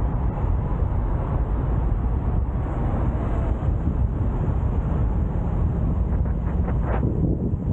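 Wind buffeting the microphone over steady road and engine noise from a moving car, with a brief whoosh near the end.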